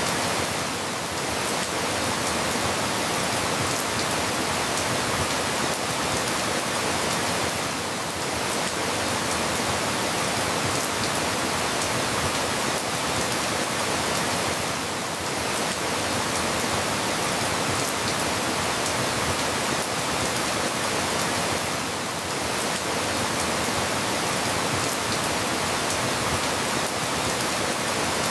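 Steady rain falling, an even hiss that dips slightly about every seven seconds.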